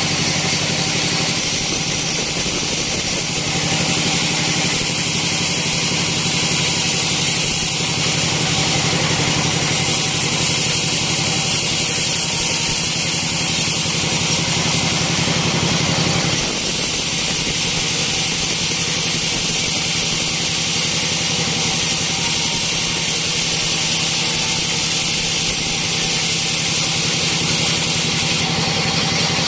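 Sawmill machinery running steadily: a motor's low hum under a loud, hissing sawing noise, which changes in tone about halfway through.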